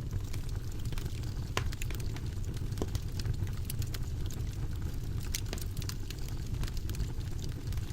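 Wood fire burning in a fireplace: a steady low rumble of flames with irregular crackles and sharp pops, a few louder pops every second or two.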